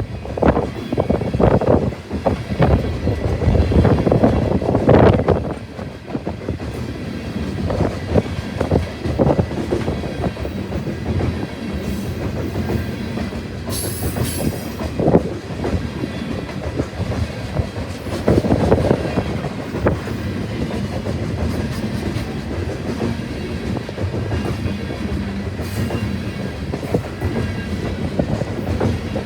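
A train's cars rolling past, their wheels clicking and knocking over rail joints with a steady rumble, louder in the first few seconds. A brief high screech comes about halfway through.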